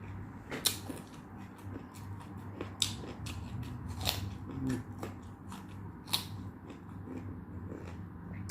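Close-up eating sounds: a person chewing, with sharp crisp clicks and crunches scattered through, four of them loud.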